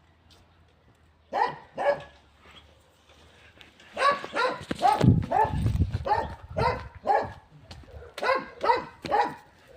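Dog barking: two barks, a pause of about two seconds, then a quick run of barks, two or three a second.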